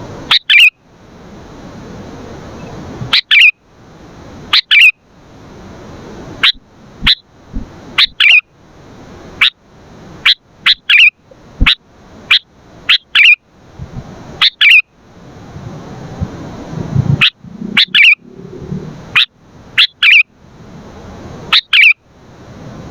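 Sooty-headed bulbul (kutilang) calling: short, loud, sharp chirps, often in pairs, about one a second, with a hiss of background noise between the calls.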